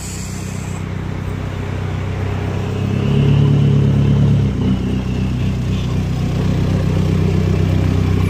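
Vehicle engine running steadily as it creeps up to the gate with a low, even hum. It swells louder about three seconds in and settles back a second and a half later.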